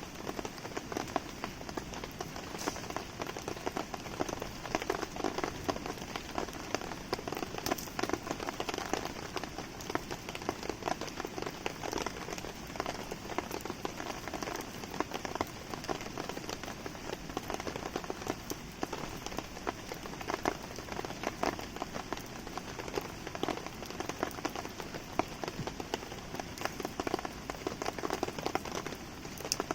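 Steady rain falling on surfaces mixed with a crackling wood campfire, with many small sharp ticks and pops.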